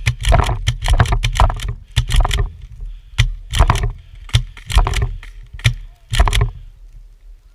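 Footsteps crunching through snow at a quick pace, about two steps a second, stopping about six seconds in, with a low wind rumble on the microphone.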